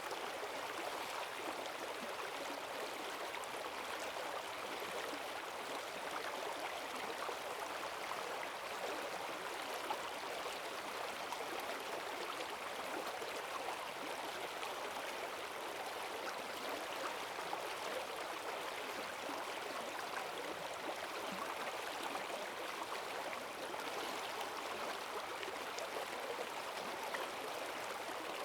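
Forest stream swollen by heavy rain, water rushing and gurgling over its bed in a steady, unbroken flow.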